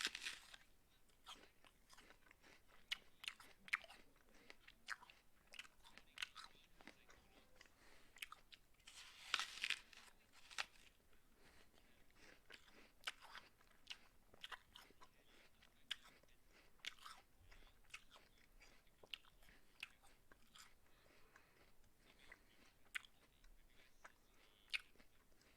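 A person biting into a raw apple and chewing it, with crisp crunches. Bigger bites come right at the start and again about nine to ten seconds in, with many small chewing crunches between.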